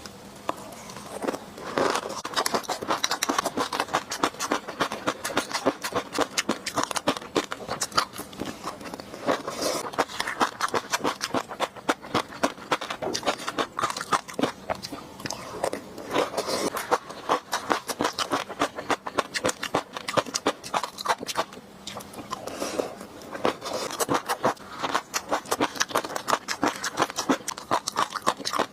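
Close-miked chewing of fish roe sauce: dense wet clicks and crackles in mouthful after mouthful.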